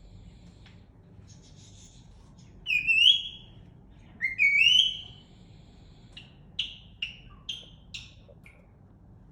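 Cockatiel whistling: two loud rising whistles about three and four and a half seconds in, followed by a run of short chirps.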